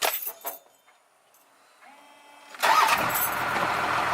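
A few light clicks, then a short hush. A vehicle engine starts about two and a half seconds in and keeps running steadily.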